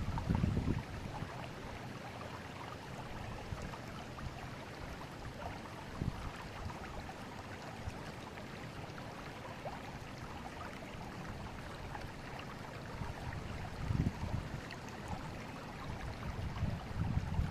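Steady rushing of a forest river's flowing water, with a few short low buffets of wind on the microphone near the start and again towards the end.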